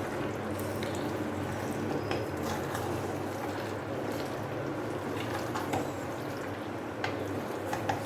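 Marinated chicken cooking in a nonstick pan: a steady sizzling, bubbling hiss with a few faint clicks, over a low steady hum.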